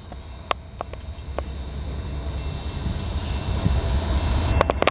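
Approaching freight train led by two BNSF diesel locomotives: a low rumble that grows steadily louder, with a few sharp clicks scattered through it.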